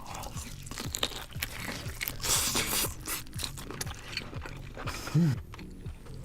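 Lobster shell cracking and crunching as it is bitten and eaten close to the microphone, over background music with a steady beat. A short hummed voice sound about five seconds in.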